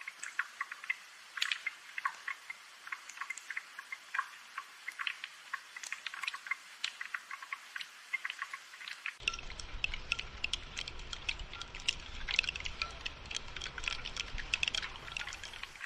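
Rain falling as a dense, irregular patter of drops and drips. About nine seconds in, a low rumble abruptly joins the patter.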